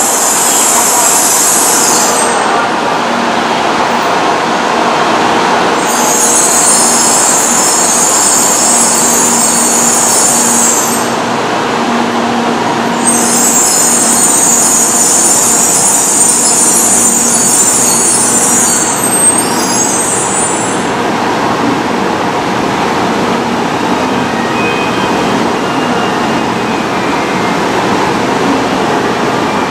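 N700-series Shinkansen train pulling slowly in along the platform and coming to a stand, its running gear and on-board equipment giving a steady rushing hum. A high-pitched buzzing switches on and off three times over it.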